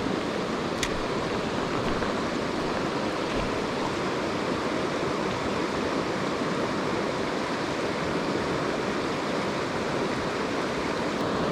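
Mountain stream rushing water, a steady even rush with no break.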